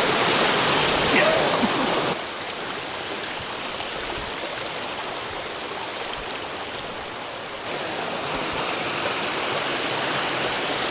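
Rushing stream water, a steady dense rush that drops abruptly in level about two seconds in and comes back up near eight seconds.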